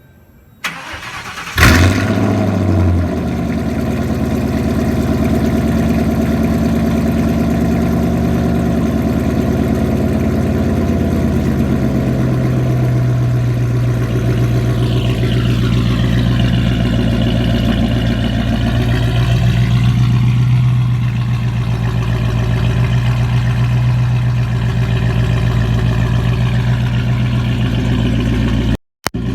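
Lincoln Town Car V8 cold start: a short crank, then the engine catches with a sharp flare about a second and a half in and settles into a steady idle. The idle changes in tone about halfway through, and the sound cuts out briefly near the end.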